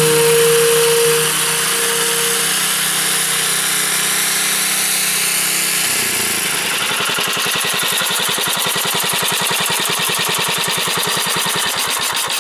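Engine of a homemade 4x4 tractor running, with a fast, even chugging beat that stands out from about six seconds in.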